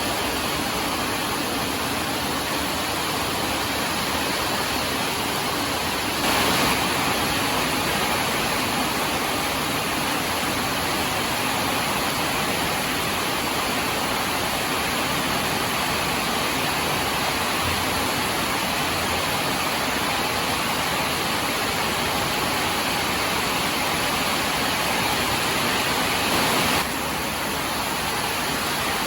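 Steady heavy rain, an even dense hiss, with small jumps in level about six seconds in and near the end.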